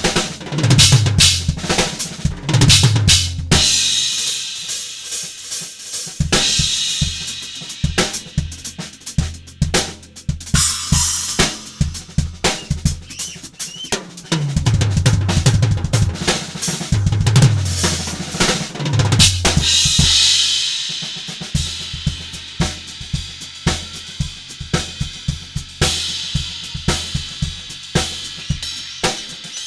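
Drum kit with Omete cymbals being played: steady beats with tom fills that step down in pitch near the start and again in the middle, each followed by crash cymbals ringing out.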